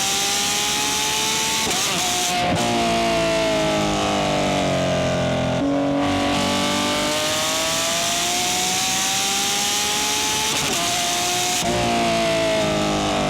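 Porsche 911 GT3's naturally aspirated flat-six engine under load, its pitch climbing slowly for several seconds and then dropping abruptly, twice, with a falling stretch in between, like upshifts and lifting off. Music plays underneath.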